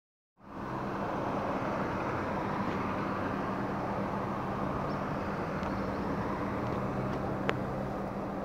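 Car engine idling, a steady hum heard from inside the cabin, with a single sharp click near the end.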